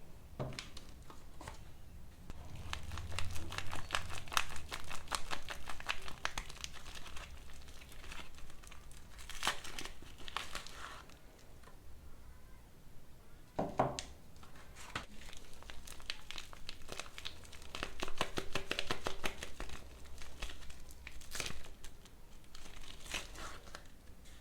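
Soap packaging being crinkled and torn open by hand, in long stretches of dense crackling, with a single sharper knock about halfway through.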